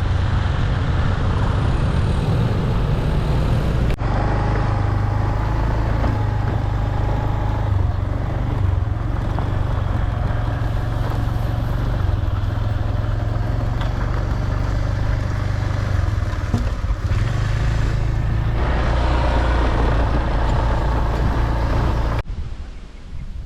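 Steady low engine and road drone from a vehicle driving along, broken by sudden cuts about 4 and 18 seconds in, ending abruptly near the end.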